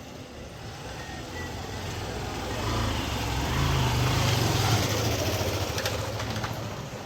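A motor vehicle's engine passing by: a low engine hum that grows louder, peaks a little past the middle and fades away.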